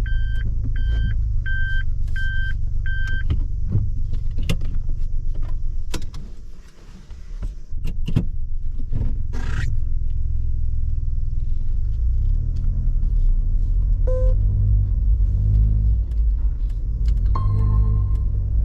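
Suzuki Jimny driving, heard from inside the cabin: a steady low rumble of engine and road noise that dips briefly about six seconds in before picking up again. A repeating electronic beep sounds about twice a second for the first three seconds.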